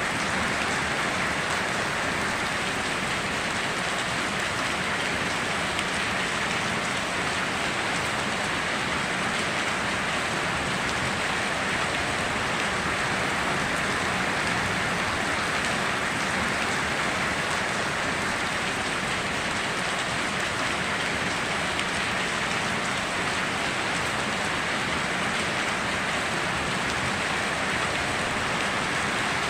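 Steady rain falling and pattering on surfaces, an even hiss with no breaks or thunder.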